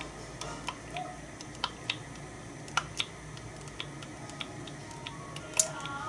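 Irregular sharp ticks and clicks, a few each second, over a low steady hiss: a homemade alcohol stove burning in a small stainless fire pit, crackling and ticking as it heats.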